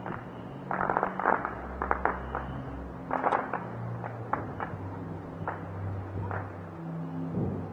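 Fireworks crackling and popping: a dense burst of crackle about a second in and another about three seconds in, with scattered single sharp bangs, over a low steady hum.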